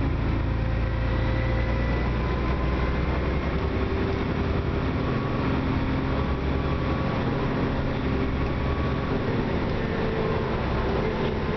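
Onboard sound of a 2004 Dennis Trident double-decker bus under way: its diesel engine and driveline running as a steady low drone, with faint whining tones above it. The uploader calls the bus clapped out, with a weird noise under acceleration.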